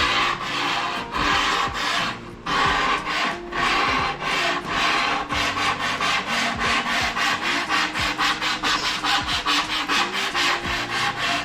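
A hand file rasping over a foam deer taxidermy form in repeated strokes, deepening the muscle lines and filing off the mould seams. The strokes are long at first and speed up to about three a second from about halfway.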